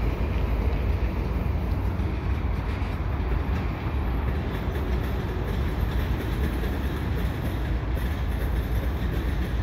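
Freight train of tank cars rolling slowly across a steel girder bridge: a steady low rumble with no sharp knocks standing out.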